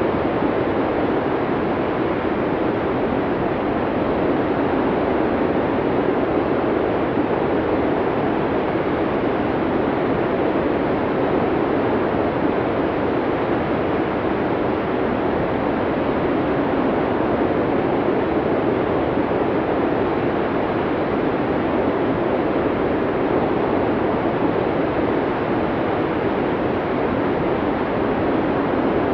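Blizzard wind blowing steadily: an even, deep rushing noise with no separate gusts or changes in level.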